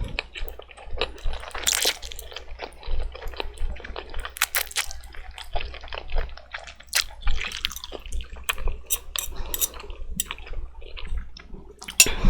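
Wet mouth sounds of someone eating noodles in thick black bean sauce: slurping and chewing with irregular smacks and clicks. A louder, sharper sound comes just before the end.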